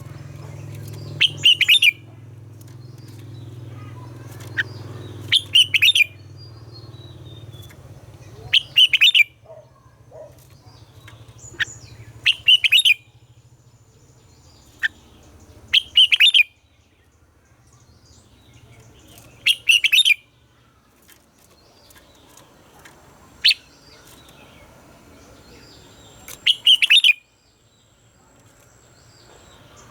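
Red-whiskered bulbul singing short, bright song phrases about every three and a half seconds, eight phrases in all.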